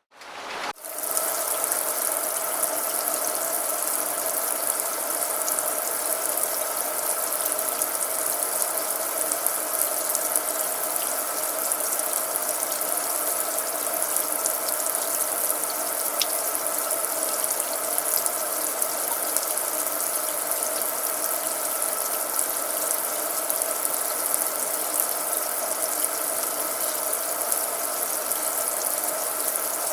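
Rain falling steadily in a dense, even patter of drops, which comes in after a brief silence about a second in.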